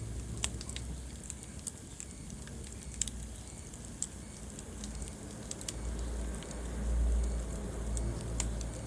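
Wood fire burning in a fireplace: irregular sharp crackles and pops over the low steady rumble of the flames, the rumble swelling about seven seconds in.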